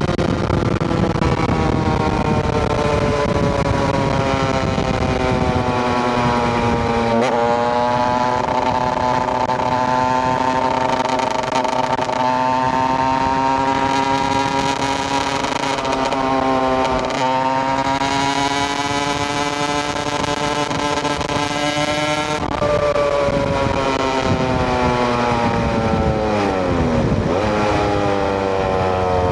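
KTM EXC 125 single-cylinder two-stroke engine running under way, its note slowly rising and falling with the throttle. The pitch shifts suddenly about 7 and 17 seconds in, and near the end the revs drop steeply and climb again.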